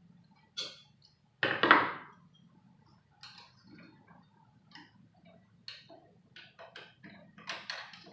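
Scattered clicks and knocks of hard objects being handled, with a louder clatter about a second and a half in and another cluster near the end, over a faint steady low hum.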